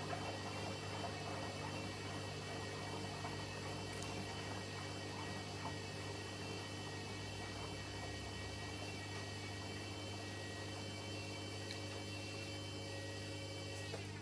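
Hoover H-Wash 300 washing machine running with a steady low hum and a high motor whine; the whine dips and stops just before the end while the hum carries on.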